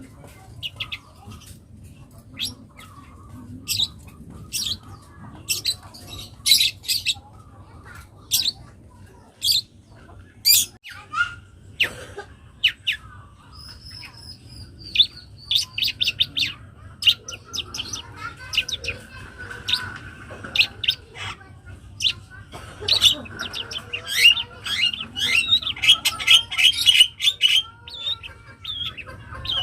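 Young long-tailed shrike singing a varied, mimicry-filled song: a run of short, sharp, harsh notes and a brief whistle, then a fast, dense chattering stretch near the end.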